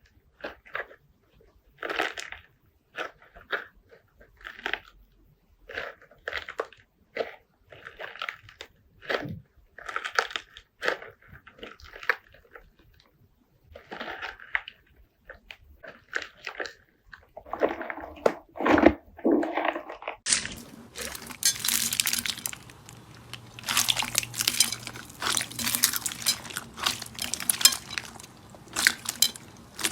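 Slime being squeezed and pressed, giving short crunchy crackles about once a second. About two-thirds of the way through it changes abruptly to a denser, continuous crackling with a faint steady hum under it.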